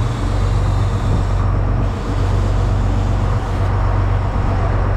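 A fishing boat's engine running steadily with a low hum, under a constant rushing noise.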